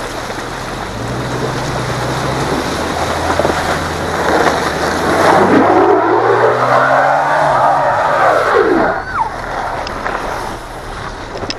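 A 4x4's engine runs low and steady, then revs hard for several seconds, rising in pitch and falling back, as the vehicle tries to climb a slippery snow-covered slope.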